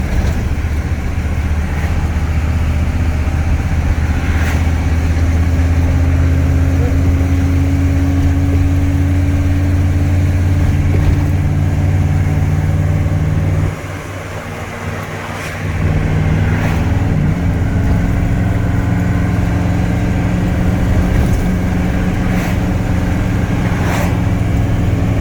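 GMC squarebody's 6.2L V8 diesel running steadily under load while towing a heavy trailer, heard from inside the cab. The engine note drops away for about two seconds midway, then returns, with a few light knocks along the way.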